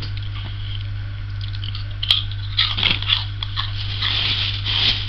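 Crunching and chewing a crispy tempura seaweed snack: crackly bites that come sparsely at first and grow busier from about two seconds in.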